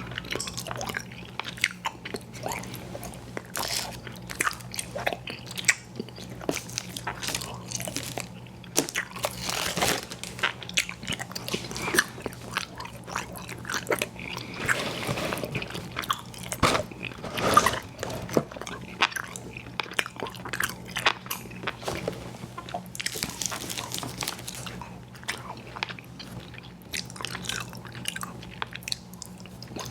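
A mouth chewing chewy fruit candies (Airhead Bites and Tootsie Fruit Chews) with big bites, making rapid wet smacks and clicks throughout, over a faint steady low hum.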